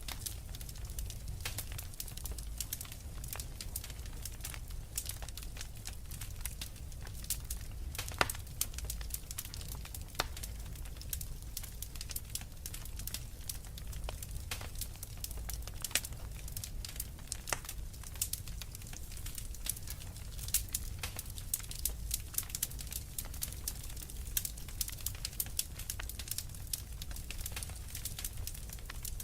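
Wood fire in a fireplace crackling, a dense run of small snaps with a few sharper pops, the loudest about eight seconds in, over a low steady rumble.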